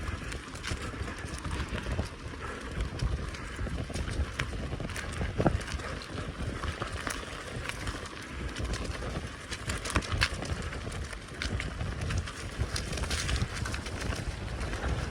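Bicycle riding over a rough forest track: steady tyre noise with frequent small clicks and rattles from the bike, and a low rumble of wind on the microphone.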